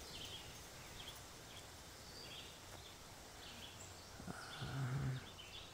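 Faint woodland ambience with small birds chirping in short, repeated calls. A little past four seconds in, a louder, low, steady sound lasts about a second.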